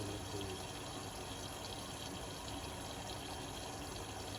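Indesit Innex BWE 91496X washing machine taking in water: a steady rush of water with a faint low hum.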